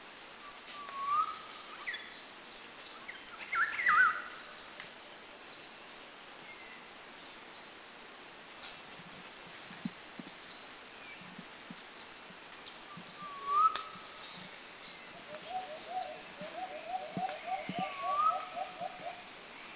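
Wild birds calling with short chirps and whistles over a faint, steady high insect hiss. In the last few seconds comes a rapid, even run of low croaking notes, about seven a second.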